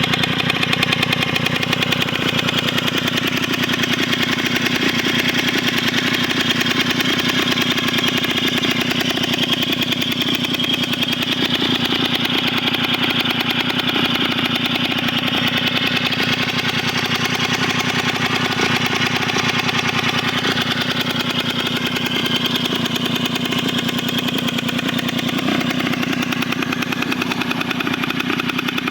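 Puch Pony Express moped's small single-cylinder two-stroke engine running steadily at idle after its repair.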